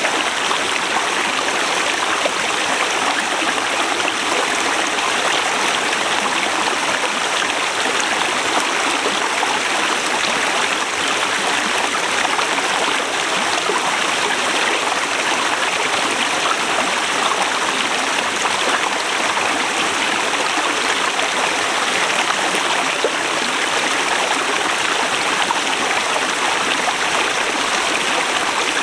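Forest river running over rocks: a steady, even rushing of flowing water.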